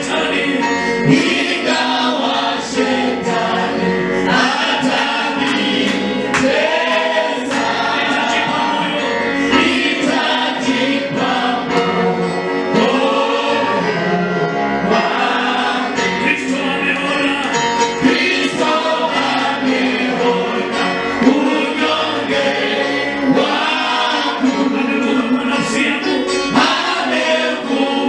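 Gospel music: a choir singing over a musical backing.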